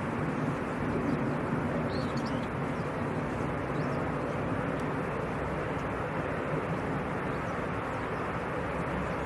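Steady aircraft engine noise, unchanging throughout, with a faint chirp or two above it.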